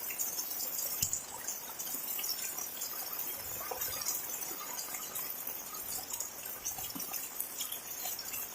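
Heavy rain falling steadily: a dense, even hiss dotted with many small sharp drop impacts.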